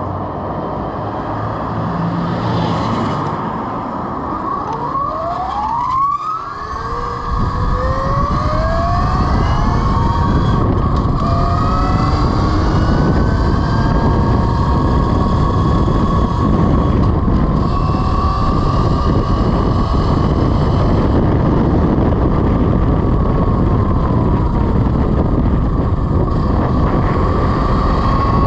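Velimotors VMX12-F 12 kW electric motorcycle under way: the motor's whine rises in pitch as it accelerates, with a brief break about six seconds in, then settles into a steady whine under loud wind rush at speed.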